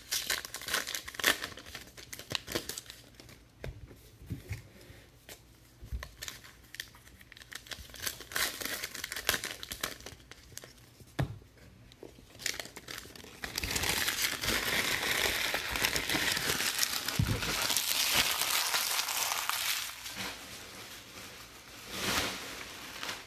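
Plastic trading-card pack wrappers crinkling and tearing as packs are handled and opened, in scattered crackles at first, then a longer stretch of steady crinkling from about 13 to 20 seconds in, with a short burst near the end.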